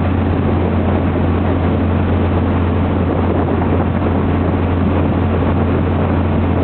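Mercury 165-horsepower boat motor running steadily underway: a constant low drone with an even rushing noise over it.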